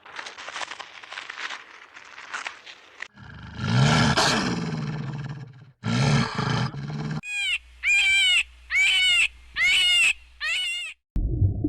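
Several animal sounds cut one after another: a noisy stretch, then a low roaring call, then a row of five short, high, arching calls.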